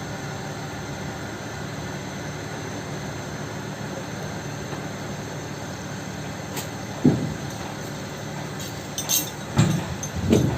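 Heavy truck's diesel engine idling steadily, with a few sharp metallic clinks and knocks about two-thirds of the way through and a louder cluster of them near the end.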